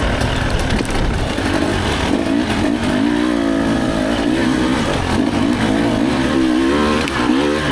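Two-stroke dirt bike engine being worked hard on a technical trail section. Its pitch rises and falls again and again with the throttle, the revving growing more marked from about two seconds in.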